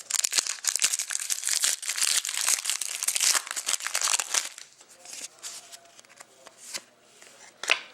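Plastic foil wrapper of a hockey card pack crinkling and tearing as it is handled and opened, for about four and a half seconds. Then quieter card handling with scattered light clicks and one sharp click near the end.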